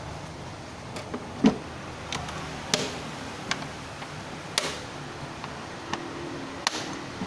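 Scattered sharp clicks and knocks, about ten at uneven intervals with the loudest about a second and a half in, from tools and engine-bay parts being handled as the cleaned throttle body and intake parts are refitted.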